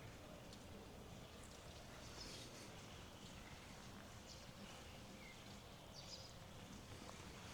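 Near-silent outdoor ambience with a faint steady hiss and a few faint, short high bird chirps now and then.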